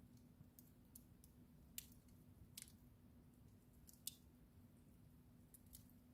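Wood fire in a fireplace crackling faintly: sparse sharp pops and snaps, the loudest about two seconds and four seconds in, over a faint steady low hum.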